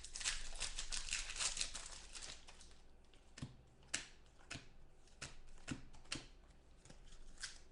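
Foil card-pack wrappers crinkling and tearing as trading-card packs are opened, then a series of sharp clicks about half a second apart as the cards are handled.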